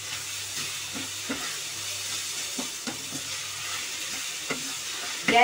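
Grated papaya sizzling in hot ghee in a non-stick kadhai, with a steady frying hiss, while a wooden spatula stirs it, making occasional light scrapes and taps against the pan.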